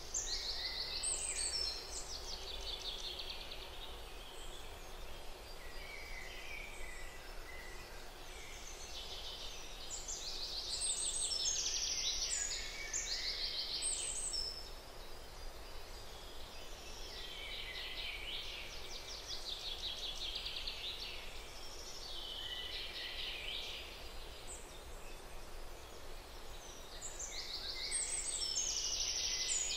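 Songbirds singing in repeated rapid trills, phrase after phrase every few seconds, over a steady low background hum: a forest birdsong ambience.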